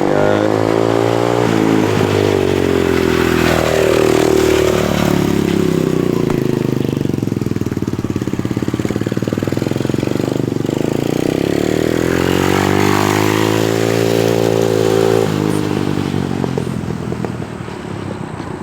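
Dirt bike engine running hard under a rider, its pitch dipping and climbing several times as the throttle is worked, then dropping back sharply about fifteen seconds in.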